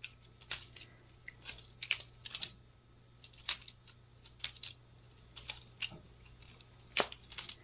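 Boker Plus balisong butterfly knife being flipped: its handles clack against each other and the blade tang, sharp clicks coming irregularly about two a second, some in quick pairs.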